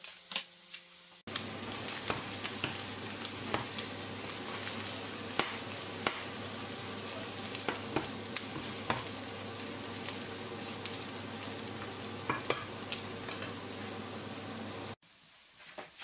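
Cubed beef and chopped onion sizzling and crackling in a nonstick frying pan as they are browned. The sizzle comes in about a second in and cuts off abruptly near the end.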